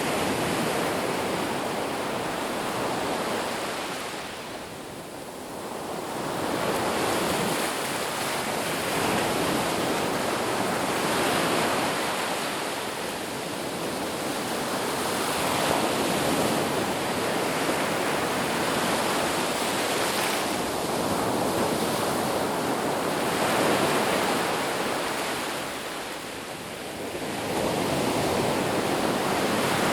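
Ocean surf: waves breaking and washing up the beach, a steady rush that swells and ebbs every few seconds.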